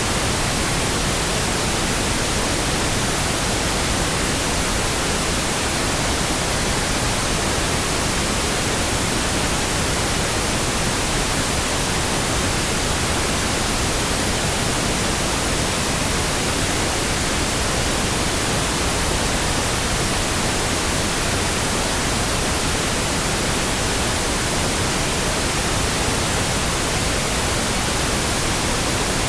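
Steady pink noise: an unbroken, even hiss that does not change.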